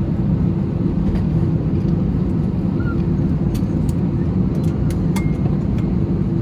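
Steady low rumble inside the cabin of an Airbus A320, with a few light clicks scattered through the middle.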